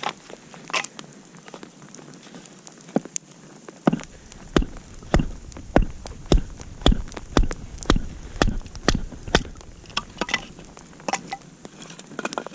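Wood campfire crackling and popping with scattered sharp snaps. From about four seconds in, a run of about ten even thuds, roughly two a second, lasts until a little past nine seconds.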